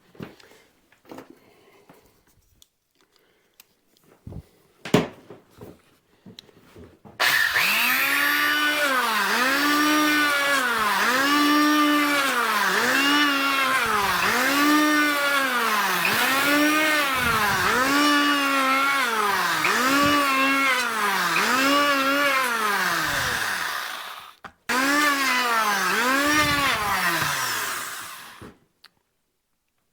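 Electric power tool motor run with the trigger feathered, its pitch climbing and falling back about once a second. A few faint knocks come before it starts, it stops for a moment, then runs again.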